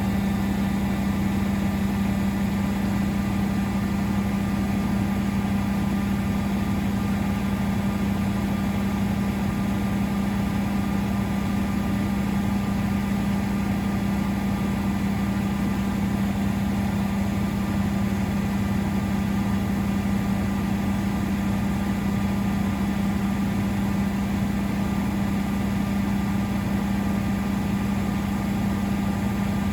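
Miele Novotronic W921 washing machine running with a steady, unchanging low hum.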